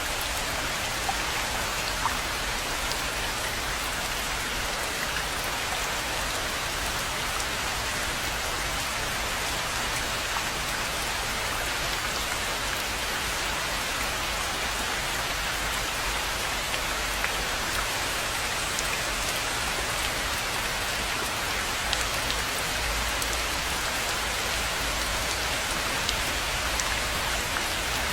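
Steady rain falling on a rainforest pond, an even hiss of drops with a few sharper individual drop ticks scattered through it.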